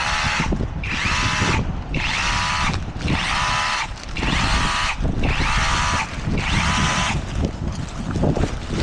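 A power tool, drill-like, running in short repeated bursts about once a second, each with a whining pitch, over a steady low rumble.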